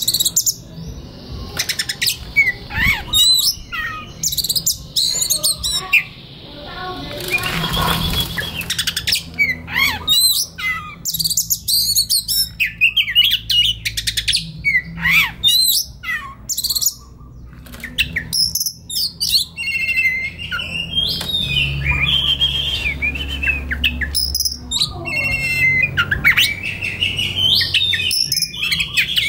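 Oriental magpie-robin (kacer) singing a long, varied song of whistled notes mixed with sharp, rapid clicking and scratchy phrases.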